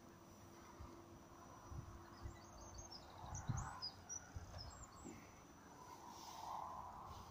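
Quiet lakeside ambience with a small bird giving a quick series of short, high chirps about two to five seconds in. A few low thumps sound on the microphone around the middle.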